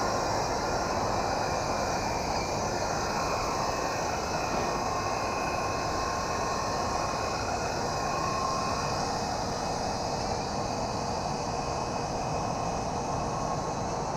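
Toys R Us Fast Lane toy RC helicopter's electric motor and rotor running steadily in flight, a constant whir with a faint high whine.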